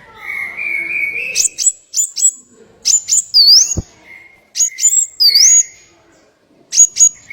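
A small songbird calling in short bursts of sharp, high chirps, twice with a swooping whistle, after a thin steady whistle at the start.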